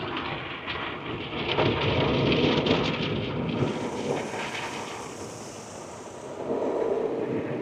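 Rinse water spraying and drumming on a car's body and windows in a tunnel car wash, heard from inside the cabin. It swells about two seconds in, and a higher hiss of spray joins at about the halfway point.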